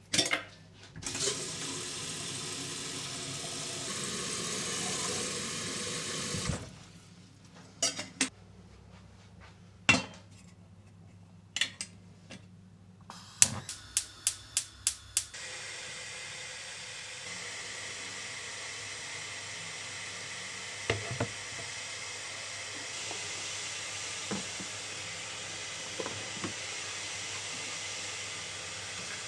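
Kitchen sounds: a few seconds of steady rushing, then dishes and utensils knocking and clinking, with a quick run of about five clicks. A steady hiss then runs on through the second half.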